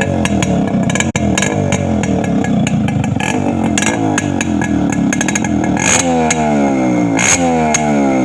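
Yamaha RX 135's single-cylinder two-stroke engine running with no muffler fitted, straight out of the open exhaust. It runs steadily at first, then from about six seconds in it is revved repeatedly, the pitch rising each time with sharp cracks.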